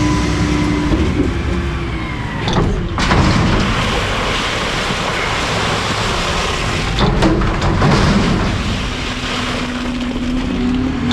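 Automated garbage truck's hydraulics and engine running under load during compacting, with a steady whine that drops away about two and a half seconds in and comes back near the end. Sharp metallic clunks sound about two and a half seconds in and again about seven seconds in.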